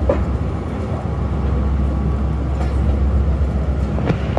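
Passenger express train under way, with the steady low rumble of the moving coaches and a few sharp clicks.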